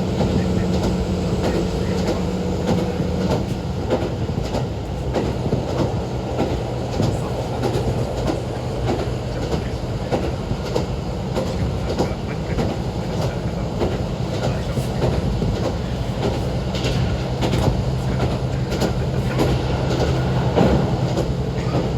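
KiHa 40 diesel railcar running along the line: steady diesel engine hum with wheels clicking over rail joints. The engine note drops a few seconds in and rises again near the end.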